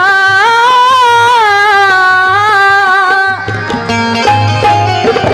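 A woman singer holds one long wavering note of a Marathi devotional song over low drumming. About three seconds in, the voice stops and an instrumental melody line takes over, played with hand-drum strokes.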